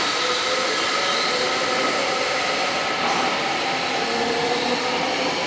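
Seibu 20000-series electric train at a station platform: a steady mechanical hum and rush of noise with several faint held tones through it.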